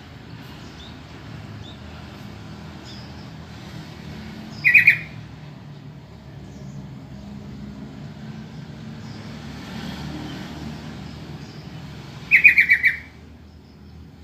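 Sooty-headed bulbul calling twice: a short loud run of quick notes about five seconds in and again near the end, over a steady low background rumble.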